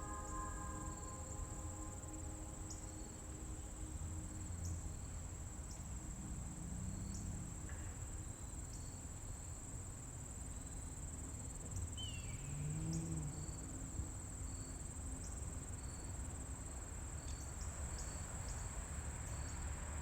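Insects trilling outdoors in one steady, high-pitched drone, with faint regular chirps and a low rumble underneath. A bell-like chime fades out in the first couple of seconds.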